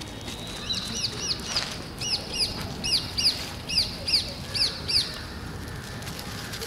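A bird calling in a quick series of short, high notes that slide downward, about a dozen at roughly three a second, stopping about five seconds in.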